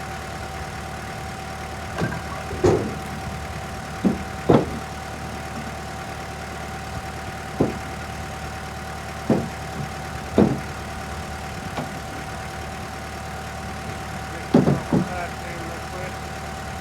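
Split firewood pieces knocking against one another as they are dropped and stacked, about ten irregular hard knocks spread out, some in quick pairs. Under them, an engine idles steadily.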